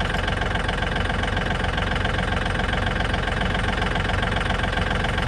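Tractor engine idling steadily with an even, rapid pulse.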